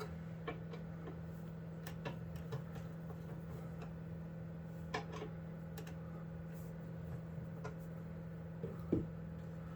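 Faint, scattered clicks and taps of hands handling a PC case and its thumb screws, about five in all, over a steady low hum.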